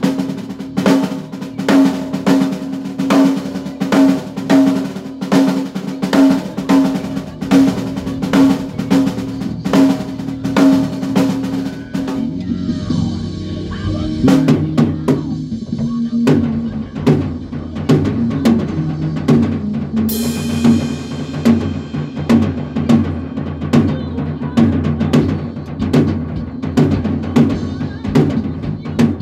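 A band rehearsing: a drum kit playing a steady beat over a low bass line, with the groove changing about twelve seconds in and a cymbal crash about twenty seconds in.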